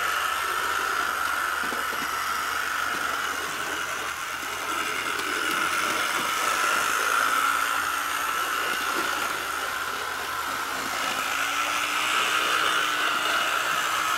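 HO scale Canadian National 6500 model locomotive running on its track: the steady whir of its small electric motor.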